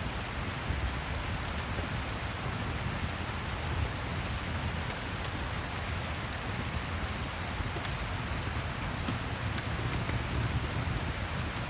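Rain and fireplace ambience: steady rain with a low rumble underneath and faint scattered crackles.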